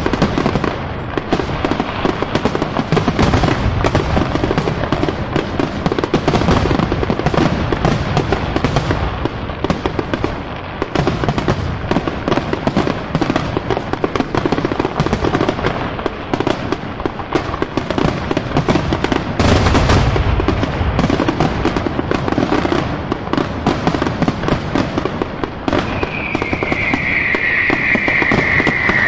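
Fireworks finale: a dense, unbroken barrage of bursts and crackling, with heavier booms about two-thirds of the way through. Near the end a high whistle slides slightly down in pitch over the barrage.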